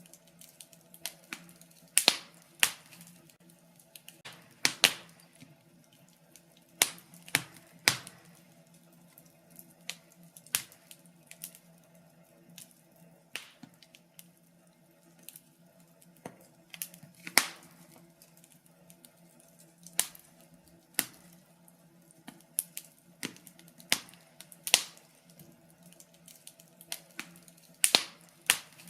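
Wood fire in a fireplace crackling: irregular sharp pops and snaps, a few louder ones standing out among many small ticks, over a faint steady low hum.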